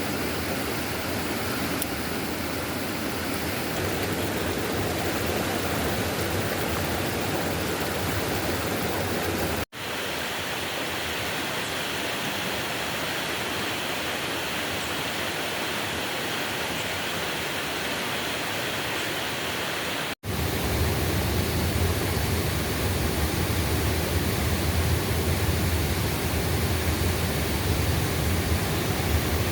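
Steady rush of a forest stream running high and cloudy after heavy rain. It breaks off for an instant twice, and after the second break the sound is a little louder and deeper.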